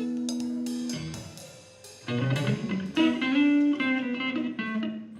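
Guitar playing a Latin fusion instrumental: a held chord rings out and fades about a second in, then picked notes and chords start again about two seconds in.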